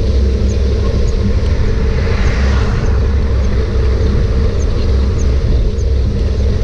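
Steady, loud rumble of wind and rolling noise while riding a bicycle, with faint, evenly spaced high ticks.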